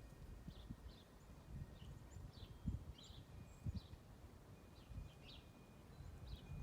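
Backyard songbirds chirping faintly: a steady run of short, high chirps, with a few thin held notes, and scattered low thumps underneath.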